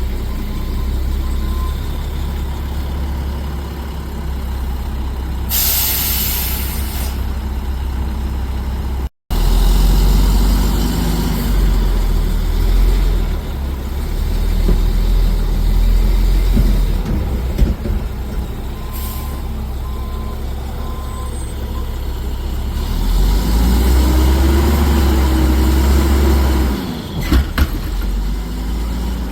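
Garbage truck diesel engine running with a deep rumble, a loud air-brake hiss about six seconds in, and intermittent reversing beeps. Near the end the engine revs up and back down.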